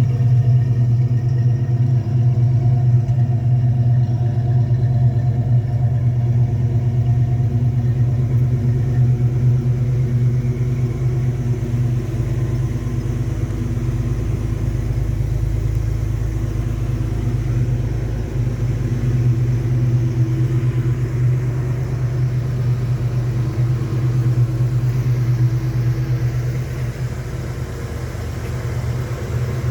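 A 1967 Ford Mustang's 200 cubic inch (3.3 L) inline-six engine idling steadily through a split 6-into-2 exhaust whose two pipes never join, giving a low, even exhaust note.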